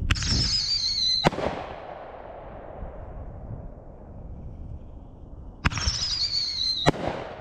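Two firework artillery shells, each fired from a mortar tube with a sharp bang, then a high whistle that falls in pitch for about a second, ending in a loud air burst with a rumbling echo. The second shell goes up about five and a half seconds after the first.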